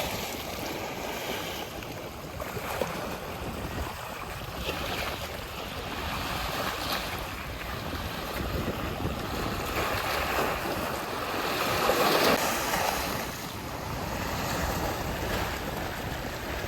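Sea waves washing onto the beach, swelling to a peak about twelve seconds in, with wind buffeting the microphone.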